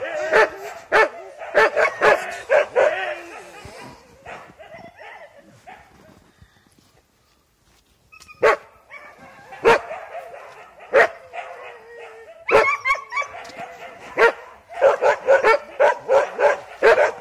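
Sled dogs barking and yelping in sharp, high-pitched bursts, dying away to a brief lull about halfway through, then starting up again and growing dense near the end.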